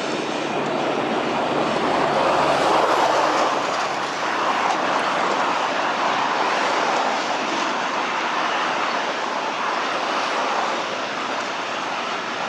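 Freight train of hopper wagons rolling past: a steady rolling noise of steel wheels on rail. It swells in the first half and eases slightly near the end.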